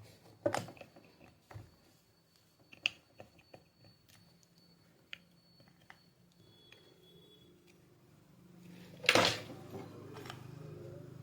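Scattered light clicks and taps of hand tools on a glued washing machine control board, with a short, loud scrape about nine seconds in. A low steady hum comes in just before the scrape.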